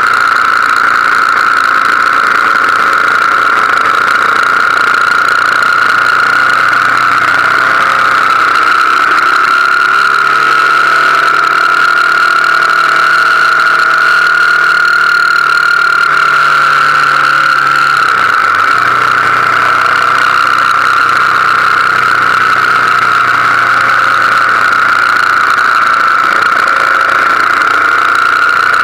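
BMW R1200GS Adventure's flat-twin engine running at road speed, heard from a camera on the bike, under a loud, steady high drone and wind rush; the engine note shifts in pitch about midway through.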